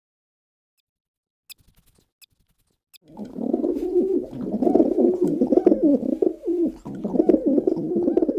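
White dove cooing in a continuous, low, rolling coo that starts about three seconds in, after a few faint clicks.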